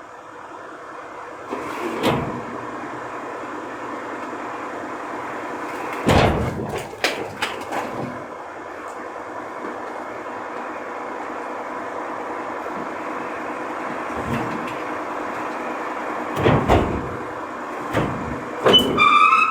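Recycling garbage truck running with a steady hum, broken by a bang about two seconds in, a cluster of bangs and clatter around six to eight seconds, and more bangs near the end.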